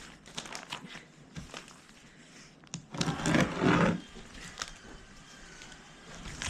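Plastic roofing sheets being handled, with scattered clicks and knocks and a loud grating scrape lasting about a second, about three seconds in.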